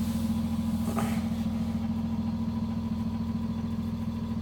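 Tow truck's engine idling steadily, heard from inside its cab.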